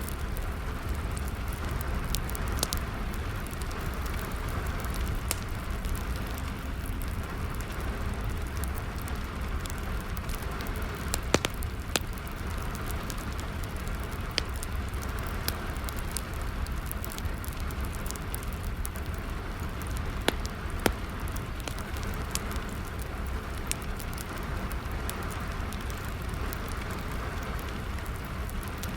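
Steady rain with a wood fire crackling, sharp pops and snaps scattered over the rain's even hiss and low rumble; the loudest pops come about eleven seconds in and twice near twenty-one seconds.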